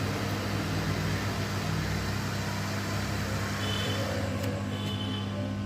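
Steady mechanical hum with an even hiss, like a running motor or fan, holding constant throughout.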